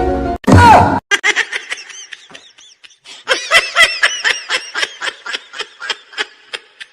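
A brief loud whoosh, then a rapid run of high-pitched giggling laughter in short squeaky bursts, several a second.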